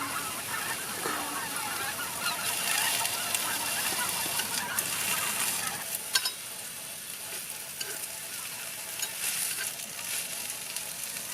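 Food sizzling as it fries. Over it, a flock of birds is calling loudly, mostly in the first few seconds.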